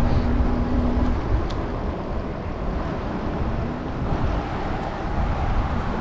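Wind and road rumble on a GoPro microphone while riding a Super73 electric bike, a steady low rushing noise. A low steady hum stops about a second in.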